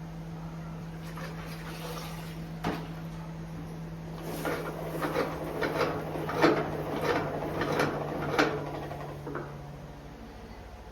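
A run of light clicks, knocks and clatters from household things being handled, with one sharp knock before the cluster, over a steady low hum that stops near the end.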